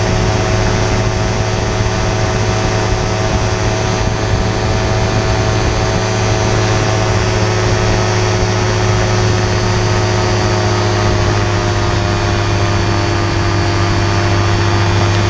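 Vancraft gyroplane's engine and propeller running at a steady, unchanging power with a low drone.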